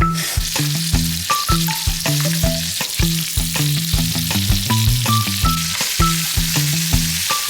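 Food frying in a hot pan, a steady sizzle, over background music with a steady beat.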